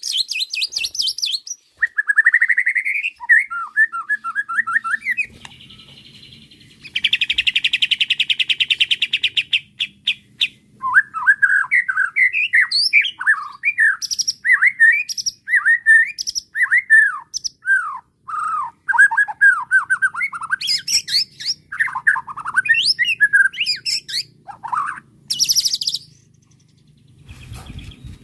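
White-rumped shama singing a long, varied song of slurred whistled phrases and sharp high notes, with a fast buzzy trill lasting a few seconds and short pauses between phrases.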